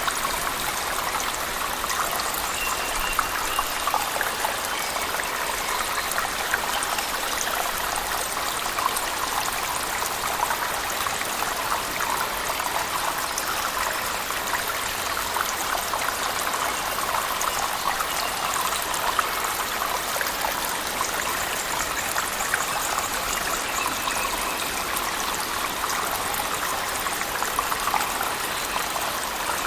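Cave waterfall mixed with heavy rain: a steady rush of falling water sprinkled with many fine drop ticks.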